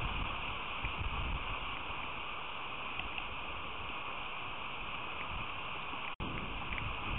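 Steady rain hissing down during a rain storm, with low rumbling that comes and goes underneath. The sound cuts out for an instant about six seconds in.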